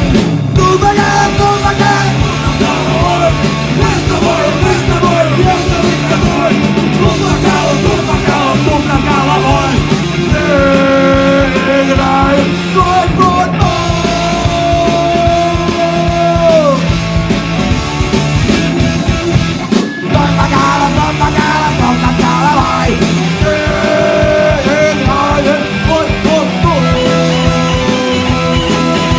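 A punk rock band playing live, mostly instrumental, with bass and drums under a lead line of long held notes that slide from one pitch to the next.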